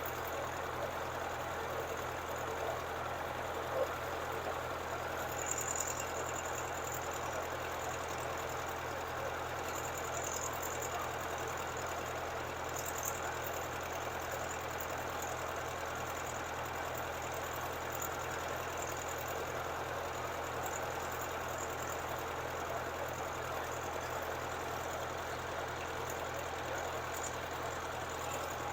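Water-well drilling rig's engine running steadily, with an even low hum and a dense rushing noise over it.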